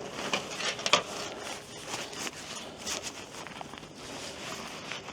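Tent fabric and its carry bag being handled: irregular rustling and scraping, with a sharper knock about a second in.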